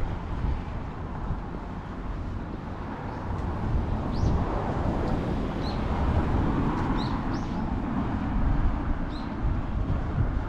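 Strong wind buffeting the microphone with a gusty rumble, with a handful of short, high bird chirps in the middle.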